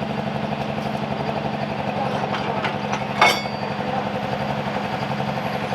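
Diesel engine idling steadily, with a single sharp click about three seconds in.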